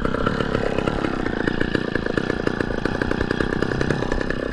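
Gas chainsaw running steadily at a constant high speed, with no let-up.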